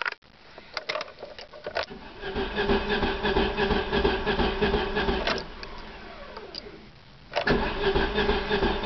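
1994 Plymouth Sundance engine being cranked by its starter without catching: a few clicks, about three seconds of cranking, a falling whine as the starter spins down, then cranking again near the end. The engine turns over but does not fire.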